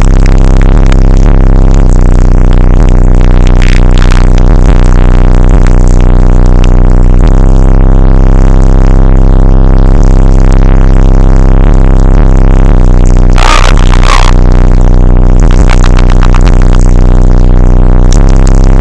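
Car sound system playing electronic music at full volume, with heavy steady bass. Two short noisy bursts cut through it about two-thirds of the way in.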